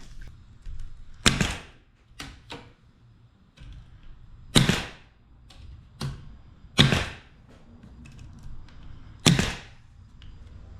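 Staple gun firing staples into the camper door: four loud sharp shots a couple of seconds apart, with a few softer clicks in between.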